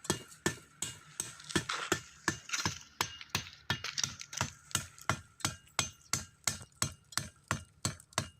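A knife blade chopping repeatedly into a wooden stem, about three sharp chops a second at an even pace, cutting it to length.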